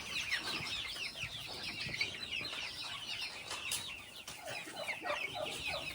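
A crowded brooder of young poultry peeping: many short, high, falling peeps overlapping without a break. A few lower calls join in during the second half.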